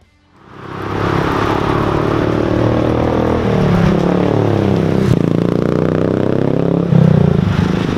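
Royal Enfield single-cylinder motorcycle running through a Khalidaro Smart Cannon aftermarket performance exhaust. The exhaust note swells up from quiet over about the first second, then runs loud and steady, and gets a little louder near the end.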